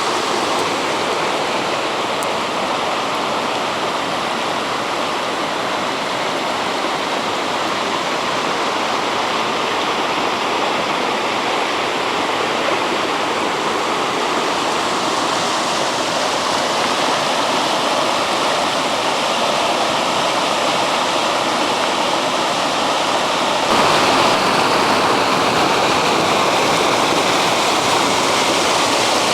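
Rainwater rushing down a wadi after heavy rain, a steady broad rush of flowing water that steps up a little louder near the end.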